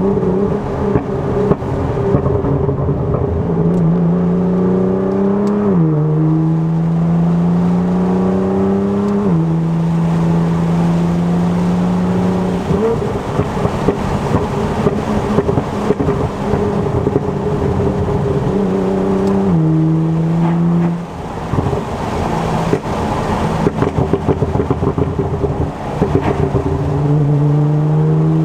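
Straight-piped Nissan GT-R R35's twin-turbo 3.8-litre V6 exhaust, heard from inside the cabin with the windows down, accelerating hard: the engine note climbs, then drops at each upshift, three times in quick succession, before settling into a steady pull. After another shift the revs fall away with a run of sharp crackles, and the note starts climbing again near the end.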